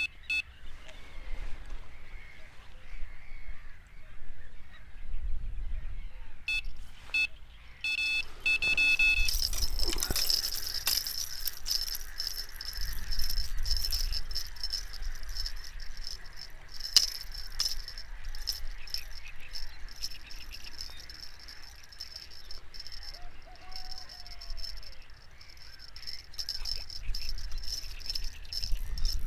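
A few short honking calls, then steady high-pitched insect chirring that sets in about a third of the way through and keeps going.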